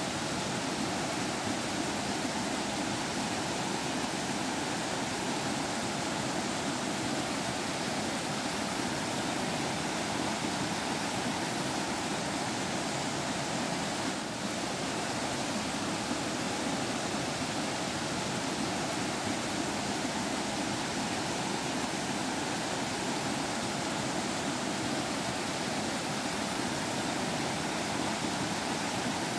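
Forest stream water flowing and trickling steadily, a constant rushing with no breaks.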